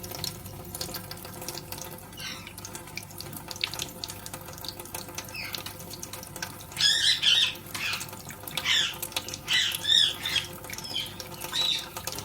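Kitchen tap running into a sink with light splashing as Indian ringneck parakeets bathe under it. About halfway through, a ringneck starts squawking in a quick series of short, loud calls.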